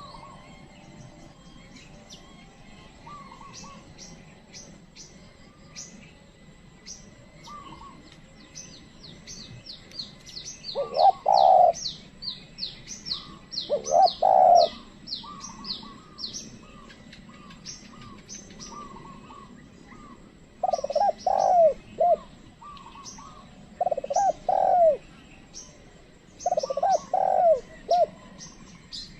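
Spotted dove cooing in short phrases of a few notes, five times, with quick, high, falling chirps from small birds in between.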